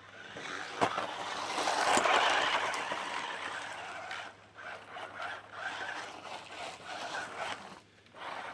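1/16-scale UDI 1601 RC truck's electric motor whirring as it drives off through dirt and sand, with tyres scratching and spraying grit. Loudest about two seconds in, then rising and falling as the truck drives about, and dropping away briefly near the end.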